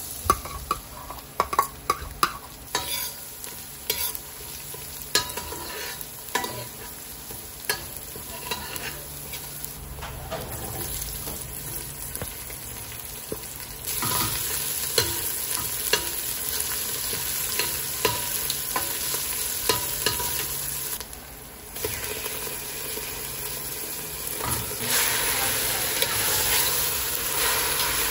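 Chopped garlic, onion and leek sizzling in oil in a stainless steel stockpot, stirred with a metal spoon that clicks and scrapes against the pot. The sizzle grows louder about halfway through, drops briefly, and rises again near the end, with meat in the pot by then.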